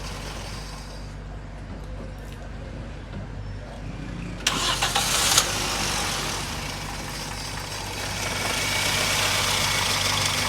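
Toyota Corolla XLi's petrol engine cranked briefly and catching about four and a half seconds in, then running steadily, a little louder near the end. The car is in for an engine sound that is not right and poor fuel average; the mechanics suspect the tappet setting.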